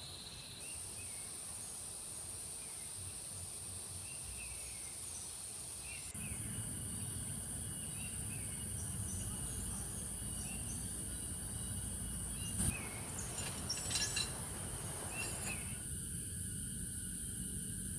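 Forest ambience: a steady high-pitched insect drone with short bird chirps repeating over it, and a few sharp clicks or knocks in the second half.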